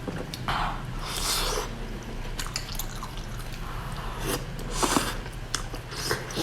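A person eating close to the microphone: wet chewing and mouth smacking with scattered small clicks. There are two longer wet slurping bursts, one about half a second in and one near five seconds.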